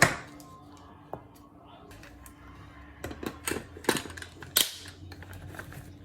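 Sharp clicks and knocks of hard objects: a loud one at the start, a smaller one about a second in, then a quick cluster of several more about three to four and a half seconds in, over a faint steady hum.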